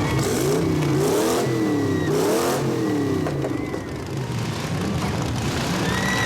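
Monster truck engine revving up and down several times in quick succession, then settling to a lower, steadier running for the second half.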